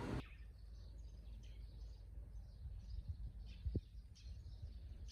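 Faint small-bird chirps repeating over a low steady rumble, with one short knock about three and a half seconds in.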